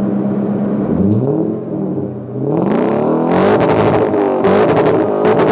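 Lexus 3UZ-FE 4.3-litre V8's exhaust, in an engine-swapped Isuzu KB 250D pickup, idling, blipped twice, then revved up hard and held at high revs.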